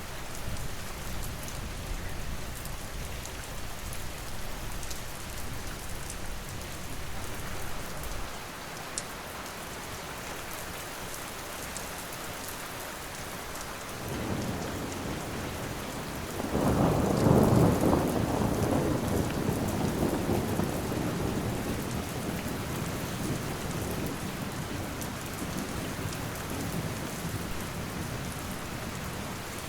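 Steady rain falling, with a roll of thunder that starts rumbling about halfway through, swells to a loud peak a few seconds later and then rumbles away slowly.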